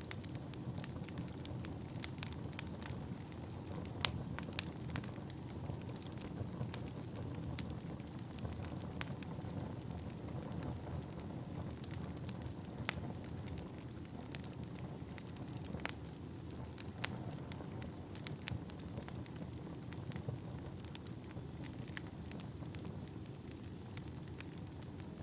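Wood fire burning in a fireplace: a steady low rush of flames with irregular sharp crackles and pops from the burning logs, one louder pop about four seconds in. Near the end a faint thin high whistle slides slightly down in pitch.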